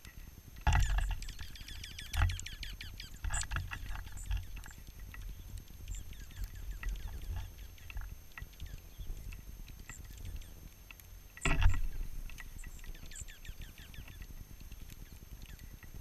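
Dark-eyed juncos at a hopper feeder right by the microphone: two loud flurries of wingbeats and knocks as a bird lands or takes off, about a second in and again later, with rapid small taps and scratches of pecking in the seed between.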